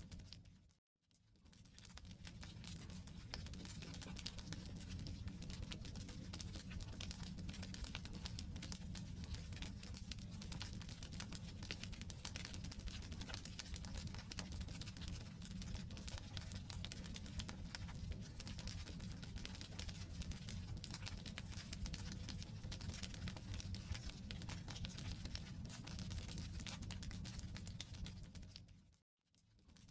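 Wood campfire burning: a constant crackling and popping of the logs over a low, steady rumble of the flames. The sound fades out briefly to silence twice, about a second in and near the end.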